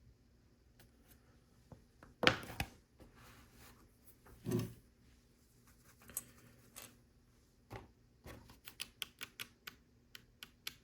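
Hard plastic LEGO pieces clicking and clattering as they are picked through and handled. There is a louder clack about two seconds in and a quick run of small clicks near the end.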